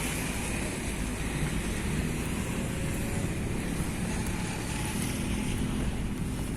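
A vehicle's engine running steadily, with road and wind noise.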